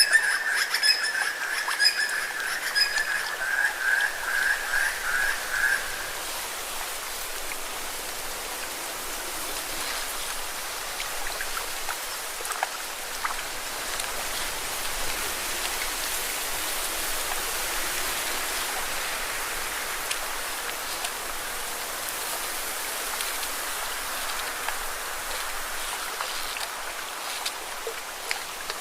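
Lake water lapping and splashing against rocks, a steady wash of small splashes. For about the first six seconds an animal's rapid high trill sounds over it, then stops.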